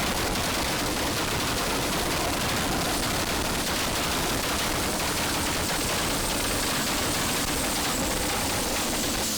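Drag car's two-step launch limiter holding the engine against the limiter, with a continuous rapid-fire crackle and banging from the exhaust. It starts and stops abruptly.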